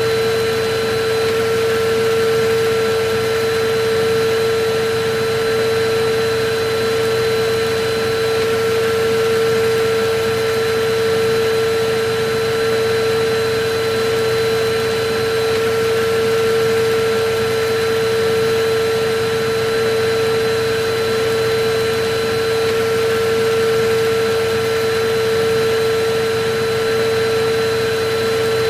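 Electric vacuum cleaner running steadily: a constant motor whine over an even hiss of air.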